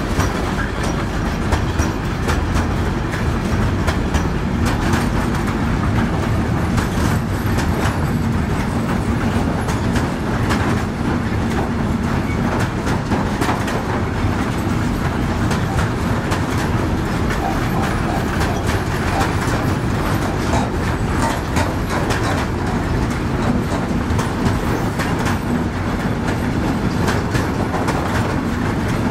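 Freight wagons of a mixed goods train rolling slowly past at close range: a steady rumble of wheels on the rails with frequent irregular clicks and clacks.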